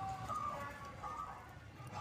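Zebra dove (perkutut), a local × Bangkok-line crossbred bird, cooing in a series of short, clear coo notes.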